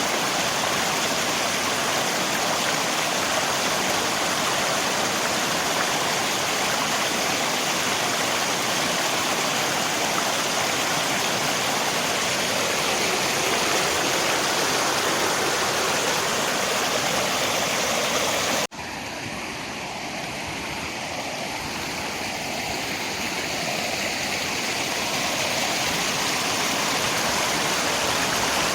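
Steady rush of flowing river water. About two-thirds of the way through the track cuts abruptly, comes back quieter and duller, and swells back up over several seconds, like a loop or edit point in the recording.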